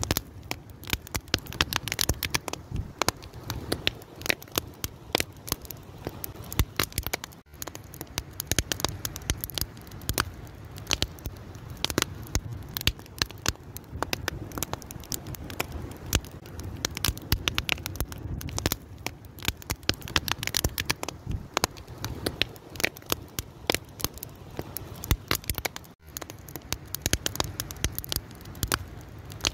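Wood fire crackling: dense, irregular sharp cracks and pops over a low steady rumble. The sound briefly drops out twice, about seven seconds in and a few seconds before the end.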